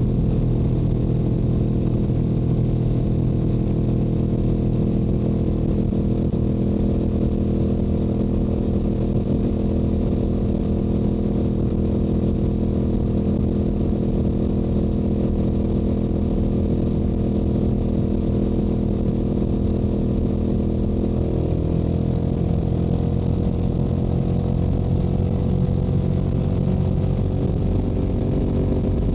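Stock Yamaha R7's parallel-twin engine and exhaust running steadily at highway cruising speed. About three-quarters of the way through the engine note changes and then climbs slowly in pitch as the bike picks up speed.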